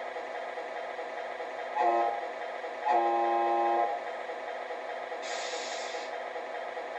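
Electronic sound unit of a 1/14 Tamiya RC Volvo FH16 tow truck playing a steady simulated diesel engine idle through its small speaker, with a short horn blast about two seconds in and a longer one about three seconds in, then a brief hiss of air near the six-second mark.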